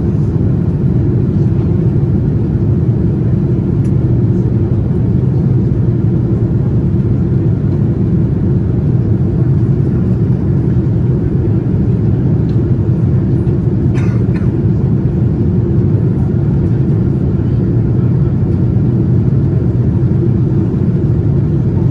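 Steady low rumble of a Boeing 787-9 airliner's cabin in flight, the airflow and GEnx engines heard from inside, on the descent toward landing. A brief click sounds about two thirds of the way through.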